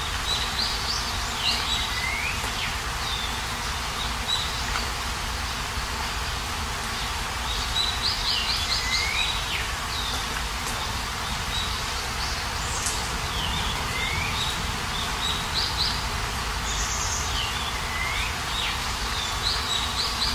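Steady rainfall with a bird calling over it several times: short quick series of high chirps, each with a sliding whistled note.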